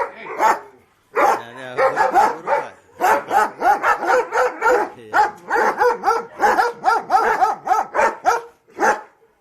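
German Shepherd dogs barking repeatedly, several loud barks a second, with a brief pause about a second in and another near the end.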